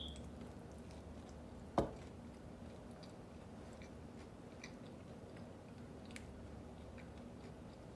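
Close-miked chewing of food, with faint scattered wet mouth clicks. A single sharp knock sounds about two seconds in.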